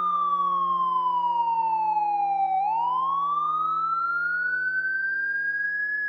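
Fire-engine siren wailing: one slow tone glides down for a couple of seconds, turns about halfway through and climbs back up to its top pitch near the end. A steady low hum runs underneath.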